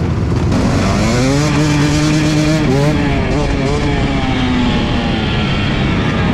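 Dirt bike engine revving: the pitch climbs over about a second, holds, then rises in a few short throttle blips around three to four seconds in before falling away. Steady rushing road and wind noise runs underneath.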